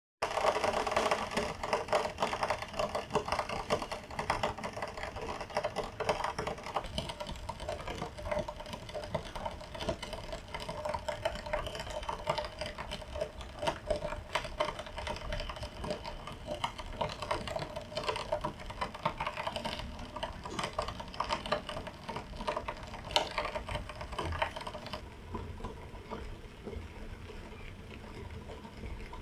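Rapid, irregular light clicks and taps of kitchen work, over a faint steady hum that stops about 25 seconds in.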